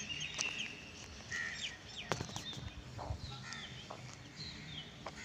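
Small birds chirping: short, high, falling chirps repeated every so often, over faint outdoor background with a few light clicks.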